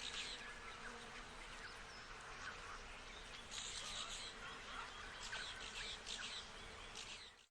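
Insects buzzing steadily, with short high calls every second or two; the sound cuts off suddenly at the end.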